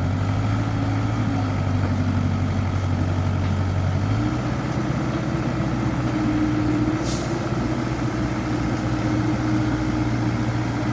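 Excavator diesel engine running steadily, stepping up slightly in speed about four seconds in, with a short hiss about seven seconds in.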